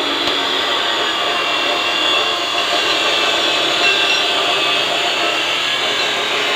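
An abrasive power tool running steadily against a part, a continuous loud scraping and rubbing with no separate strokes.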